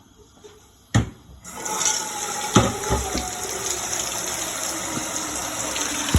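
A click, then a tap turned on and water running steadily from it, with a knock a little after it starts.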